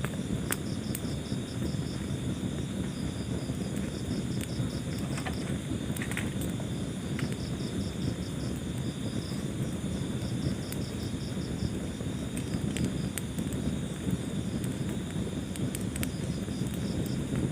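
Wood fire in a fireplace burning with a low steady rumble of flames and scattered sharp crackles and pops. Crickets chirp throughout in high, pulsed trills.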